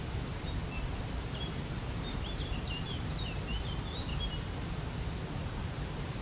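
Steady rushing of a waterfall, with a small bird's quick run of short, high chirps and twitters from about half a second in to about four seconds in.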